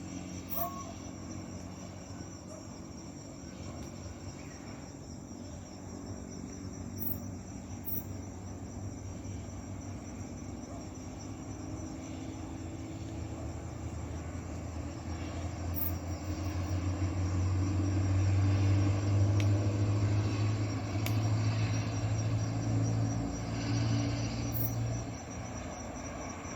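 Crickets chirring steadily, with a motor vehicle's engine hum that grows louder from about midway and drops away near the end, as of a vehicle passing.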